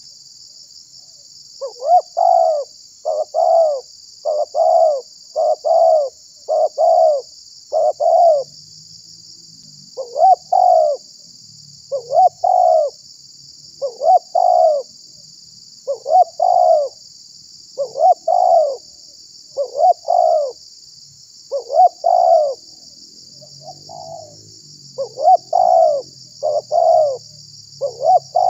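Spotted dove (tekukur) cooing: a long run of short coo notes, some in quick pairs, with brief pauses between phrases, starting about two seconds in. It is the call used to lure wild tekukur.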